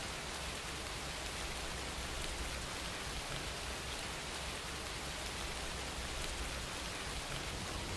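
Steady rain: a continuous, even hiss of rainfall, used as a background ambience track.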